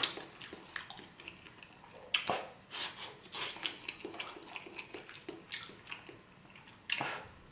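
Close-up mouth sounds of chewing a mouthful of seafood paella, with scattered small clicks and scrapes of a mussel shell against a plate.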